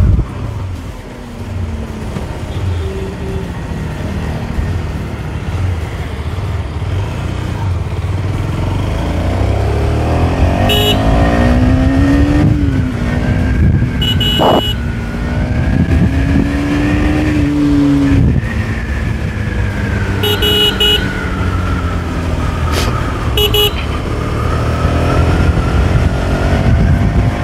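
KTM Duke 250's single-cylinder engine pulling as the bike accelerates on the road, its note climbing and then dropping at gear changes, over a steady rumble of wind and road. Short horn beeps sound a few times in the second half.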